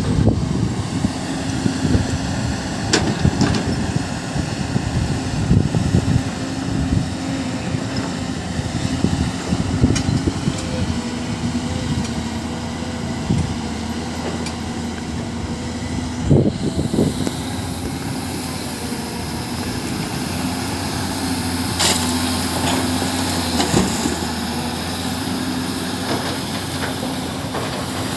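Heavy construction machine's engine running steadily, with scattered knocks and clanks and a louder double knock about two-thirds of the way through.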